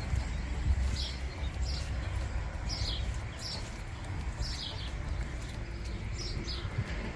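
A small bird chirping over and over in short, high, falling notes, mostly in quick pairs about every one and a half to two seconds, over a steady low rumble.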